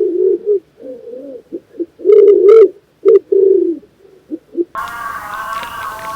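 A bird cooing: a run of low coos broken by short pauses. About three-quarters of the way through, a different, higher-pitched animal sound abruptly takes over.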